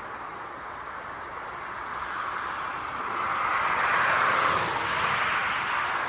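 Jet airliner's engines passing by: a steady rushing noise that grows louder about three seconds in, with a hiss that sweeps up in pitch and back down as it nears.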